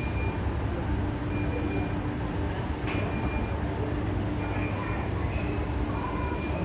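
Escalator running downward: a steady mechanical rumble from the steps and drive, with a faint high tone that comes and goes and a single click about three seconds in.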